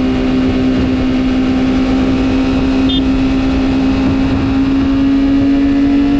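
Superbike engine running hard at high, steady revs, its pitch creeping slowly upward, with rushing noise underneath.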